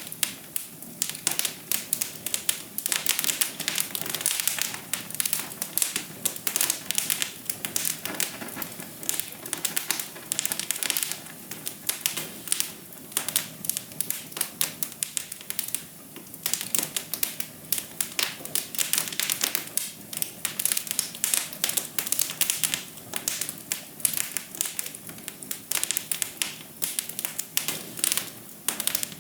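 Fire in a fireplace crackling, a dense, uneven run of sharp snaps and ticks over a soft hiss.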